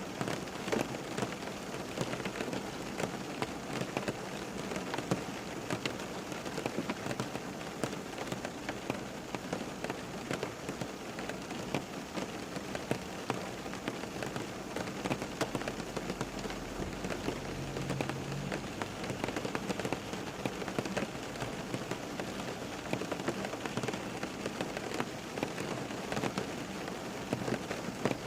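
Steady rain falling on a surface, a continuous patter of many drops with sharper individual drop hits throughout.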